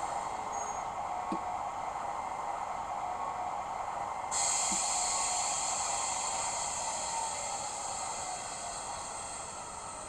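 Acme E626 model electric locomotive with a Portigliatti DCC sound decoder, running with a steady whir and hiss, plus a couple of faint clicks. About four seconds in, a higher hiss cuts in suddenly.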